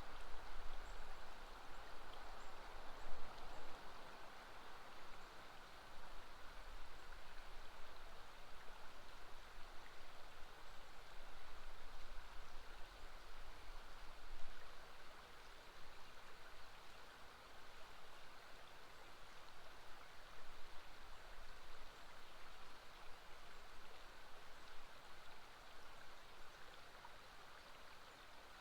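River water flowing steadily past a riverbend, a continuous rushing wash that eases slightly near the end.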